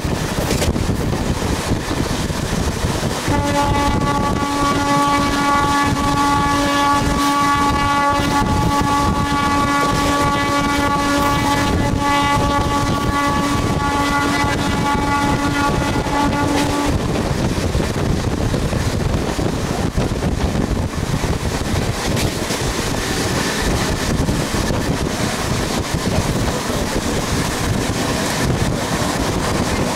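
Running noise of a moving passenger train with wind buffeting the microphone at an open window; a few seconds in, a train horn sounds one long steady note, held for about fourteen seconds before it cuts off.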